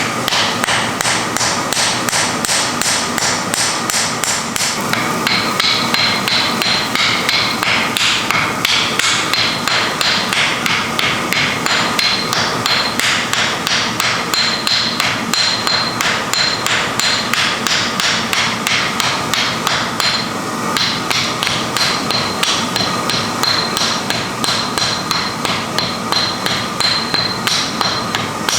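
Metal hammer striking iron on an anvil in a steady rhythm of about three blows a second, each blow ringing. There is a brief pause about twenty seconds in.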